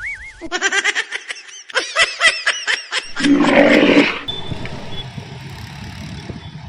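Edited-in comedy sound effects: a run of quick, warbling pitched squeals wavering up and down, then a loud harsh burst about three seconds in that lasts around a second, after which only quieter background noise remains.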